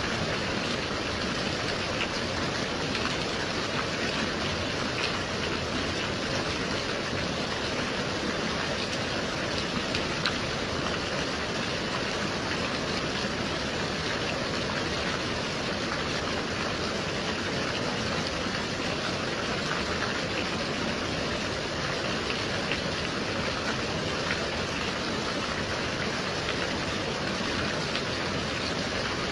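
Gentle rain falling steadily: an even hiss with light, scattered drop sounds.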